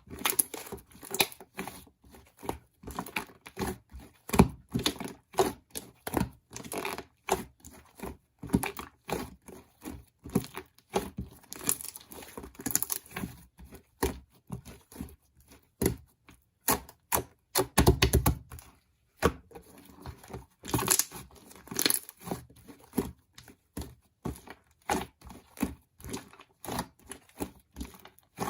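Irregular close-up handling noises: quick taps and clicks mixed with crinkling and rustling, with a heavier low thump about eighteen seconds in.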